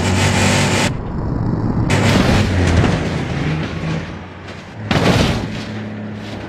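Loud booming, explosion-like noise that cuts off abruptly about a second in, followed by rough rumbling noise and a second loud burst about five seconds in.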